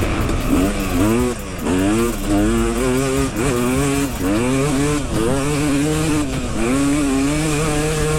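Dirt bike engine revving up and down over and over as the rider opens and closes the throttle around a motocross track, the pitch climbing, dropping off briefly, and climbing again.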